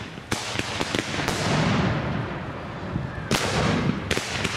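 Fireworks going off in quick succession: a rapid string of sharp bangs and cracks, with rushing, crackling bursts about a third of a second in and again past three seconds.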